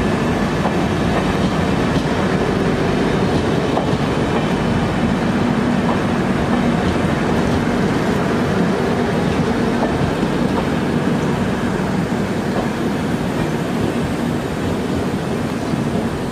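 LHB passenger coaches rolling past: a steady rumble of wheels on the rails, with scattered clicks from the track.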